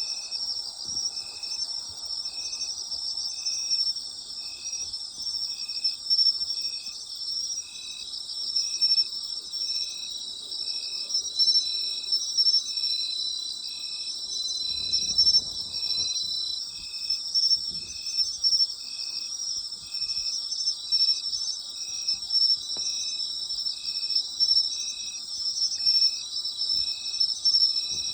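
A chorus of autumn night insects such as crickets trilling steadily at a high pitch, with one insect calling in a regular rhythm at about one chirp a second.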